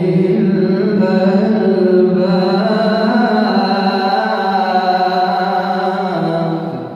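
Male reciter's voice chanting the Qur'an in melodic tajwid style, drawing out the word "al-albāb" in one long, wavering, ornamented note that stops just before the end.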